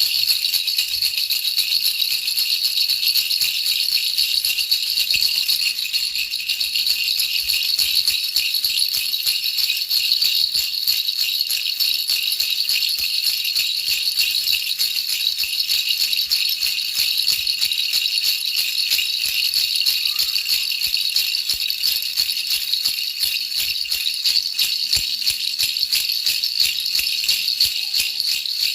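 Baby rattle shaken continuously, a fast, even, bright rattling of small beads that never pauses, played as soothing white noise for a baby's sleep.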